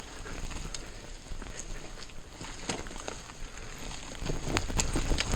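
Mountain bike riding over a rough forest trail: tyre and gravel noise with clicks and rattles from the bike, getting louder and busier about four seconds in. A steady high-pitched buzz runs underneath; it is an audio glitch from the editing software.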